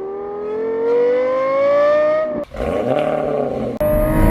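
A high-performance car engine accelerating hard, its pitch climbing steadily for about two and a half seconds before it cuts off abruptly. Two more short bursts of engine sound follow, each starting with a sudden edit.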